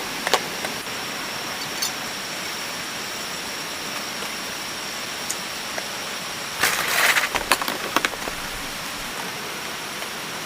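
Steady rain falling, an even hiss throughout, with a few sharp clicks and a short burst of crackling about seven seconds in.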